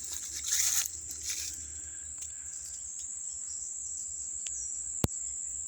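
A steady high-pitched insect drone, with rustling in the first second and a half and a single sharp click about five seconds in.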